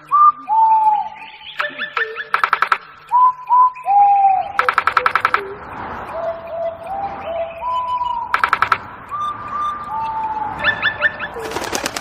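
Birds calling: short whistled notes that dip slightly in pitch, broken by several bursts of fast rattling trills, over a soft hiss from about the middle on.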